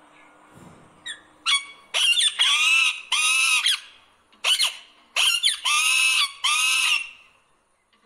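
A bird calling loudly, in two runs of about three calls, each call about half a second long.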